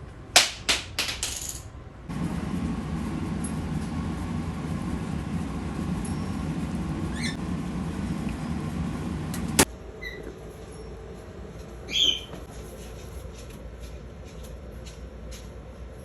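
A quick run of sharp clicks and clatters near the start, like small hard objects dropping. A steady low rumble follows and stops abruptly with a click, and about twelve seconds in a parrot gives one short call.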